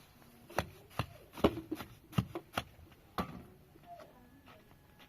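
Irregular sharp knocks and taps, about eight of them over the first three seconds, then only faint small sounds.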